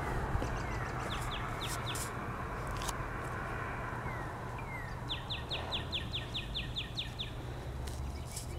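A songbird singing: a few short, falling notes early on, then a quick run of about a dozen of them, about five a second, past the middle. This sits over steady background noise.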